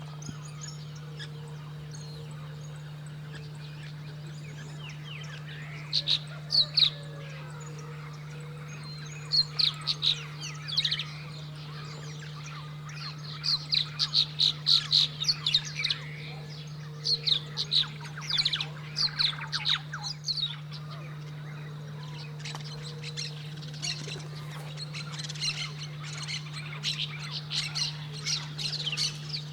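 Birds calling in several bouts of sharp, rapidly repeated notes, over a steady low hum.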